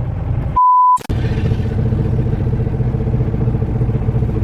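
Semi-truck engine drone heard inside the cab while driving, a steady low rumble with an even hum. About half a second in, the sound drops out for a short single-pitch censor bleep, then the drone resumes.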